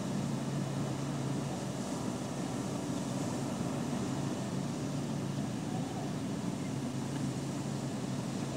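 A parked car's engine idling, heard from inside the cabin as a steady low hum, with the even wash of surf breaking on the beach behind it.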